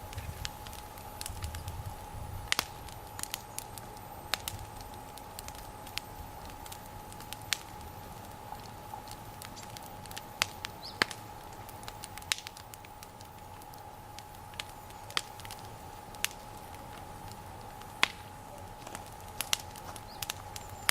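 Wood bonfire burning well, crackling with irregular sharp pops and snaps.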